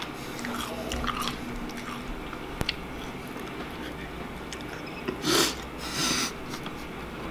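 Crunchy cereal being chewed, with small clicks of a metal spoon in a plastic bowl. About five and six seconds in come two louder short rushes of noise.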